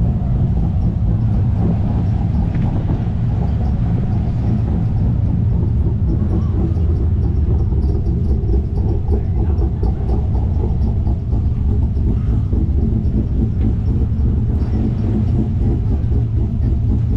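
A car engine idling close by, a deep, steady low rumble that holds an even level throughout.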